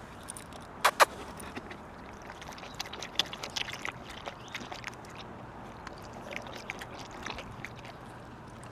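German Shepherd lapping water in a run of quick, irregular wet laps, after two sharp clicks about a second in.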